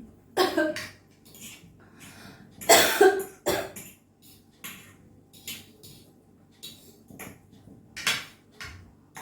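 A woman coughing while eating 2x spicy ramen, the loudest coughs about three seconds in and another near the end, with quieter mouth and eating clicks between them.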